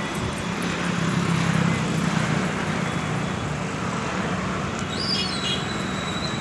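Steady road traffic noise with an engine hum that swells about a second in. Near the end a thin high call falls and then holds.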